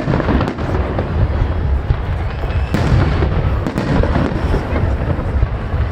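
Fireworks display: a dense run of bangs and booms over a continuous low rumble, with sharper reports about two thirds of the way through.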